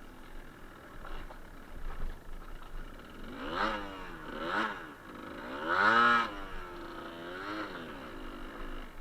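Suzuki TS125R's single-cylinder two-stroke engine under the rider, revving up and falling back four times as the throttle is opened and closed. The loudest rise comes about six seconds in.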